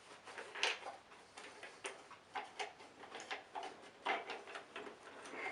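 Irregular light clicks and knocks, a dozen or so spread unevenly, from hands handling and cleaning parts of an old upright vacuum cleaner.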